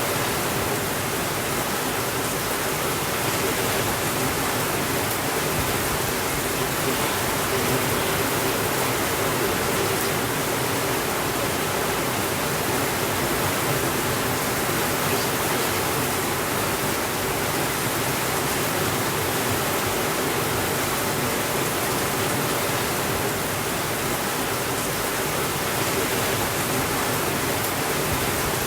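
Steady rainfall, an even hiss with no thunder or sudden changes.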